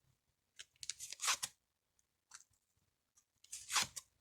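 Lenormand cards being handled: several short swishing, scraping rustles as cards are drawn and laid out, the longest about a second in and another near the end.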